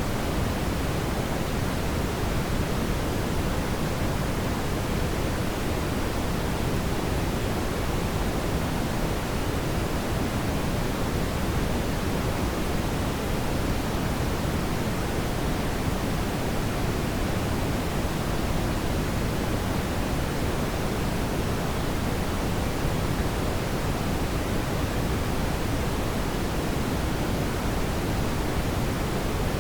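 Steady brown noise: an even, deep hiss with most of its weight in the low end and no change or events.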